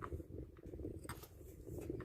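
A few faint, irregular clicks and handling noises from working with an electrical connector by hand, over a low steady hum.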